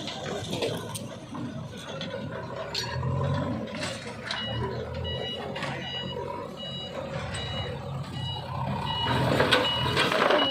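A bulldozer's diesel engine running, with its reversing alarm starting to beep about twice a second about halfway through. A few sharp knocks sound over it.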